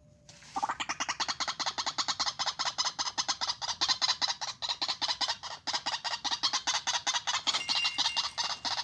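White-breasted waterhen calling: a fast, unbroken run of harsh repeated notes, several a second, starting about half a second in.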